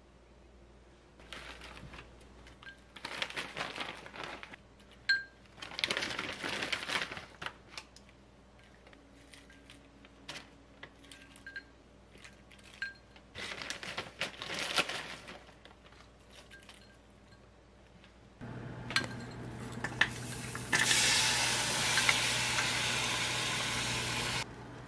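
Small dishes and food being handled, with scattered light clinks and rustles. About three-quarters of the way through, a low steady hum starts. Near the end, frozen shiitake, shimeji and spinach hit a hot frying pan and sizzle loudly and evenly for about three and a half seconds before stopping abruptly.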